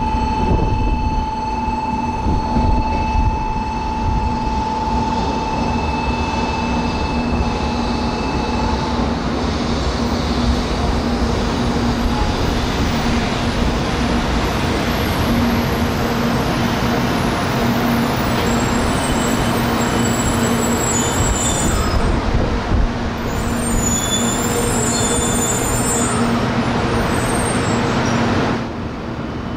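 700 series Shinkansen train running along the platform with a steady rumble of wheels and running gear. A steady high whine runs over the rumble and stops about nine seconds in. The level drops sharply near the end.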